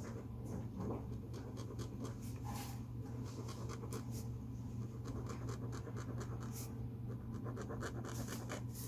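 Drawing tool scratching on paper in short strokes, with a run of quick back-and-forth strokes in the second half.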